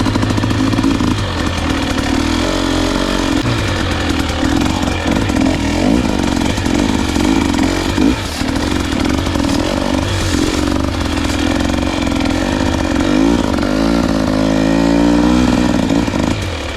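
Dirt bike engine running under load on a trail climb, the revs rising and falling with the throttle, and climbing near the end.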